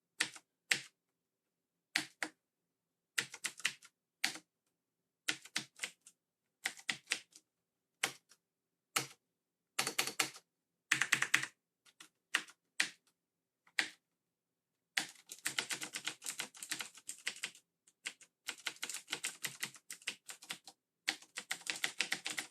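Clicky keystrokes on a Razer BlackWidow Ultimate 2013 mechanical keyboard with Cherry MX Blue switches, as keys are tested after cleaning: single presses and short groups of presses with pauses between them, then fast continuous typing from about fifteen seconds in.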